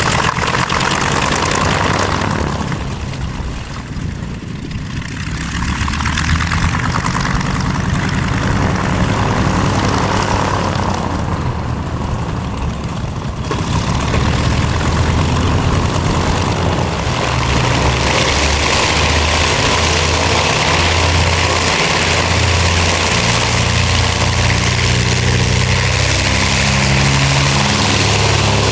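North American B-25 Mitchell bomber's twin radial engines and propellers running, the engine note shifting in pitch; it gets louder and rougher about halfway through.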